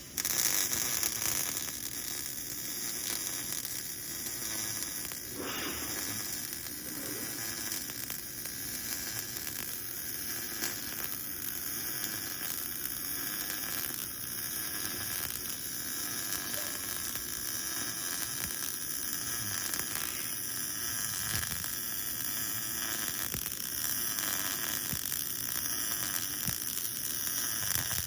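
Welding arc laying a continuous bead on a steel uniball cup: a steady sizzling hiss that starts abruptly as the arc is struck and carries on without a break.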